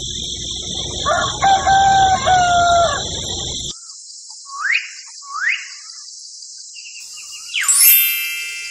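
A rooster crowing in a held call of several parts over a steady high hiss. The sound cuts off abruptly, then come two short rising bird-like chirps and a falling whistle-like swoop near the end.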